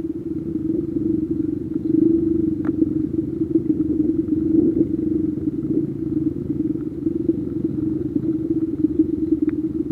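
Dirt bike engine running at a steady, even pitch under light throttle over a low rumble, as the bike rides a rough dirt trail. Two brief clicks, about a third of the way in and near the end.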